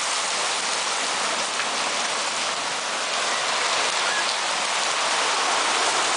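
Heavy rain pouring down in a steady, even hiss, with a few faint ticks of drops or hailstones striking.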